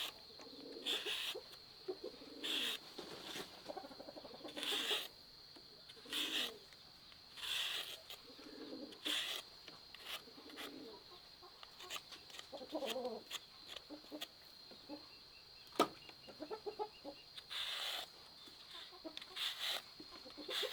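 Chickens clucking in short, repeated calls every second or so, with a steady high insect drone behind them and one sharp click near the end.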